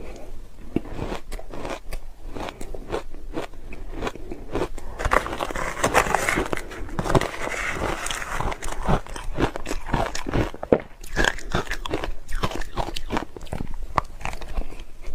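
A person biting and chewing ice: a rapid, uneven run of sharp crunches, densest around the middle.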